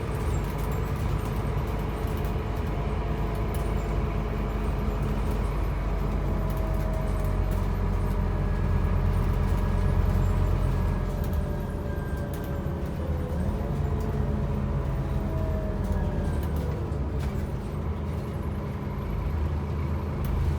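Scania N270UB OmniCity bus's diesel engine running under load, getting louder until about halfway. After that it eases off, with a whine that falls in pitch over several seconds as the bus slows.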